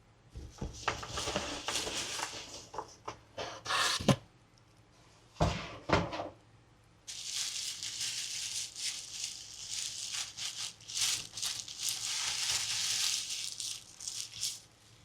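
Toy packaging being handled and opened: crinkling and rustling plastic with a few sharp knocks in the middle, then a longer stretch of steady crinkling from about halfway through.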